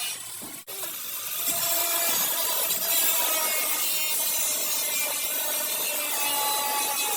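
Angle grinder working on car body sheet metal: a steady abrasive grinding with a wavering whine, broken briefly just under a second in.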